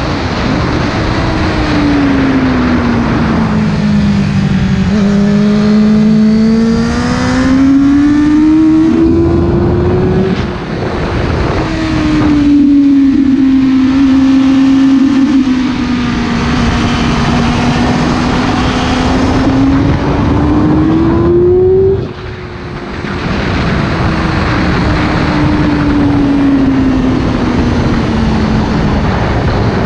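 Sport motorcycle engine at speed on track, heard onboard under steady wind rush. The engine note sinks, then climbs through the revs with a sudden drop about ten seconds in, climbs again, and cuts sharply just past twenty seconds before sinking slowly.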